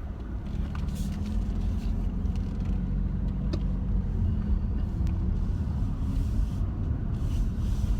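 Car driving slowly, heard from inside the cabin: a steady low engine and road rumble with a few faint clicks.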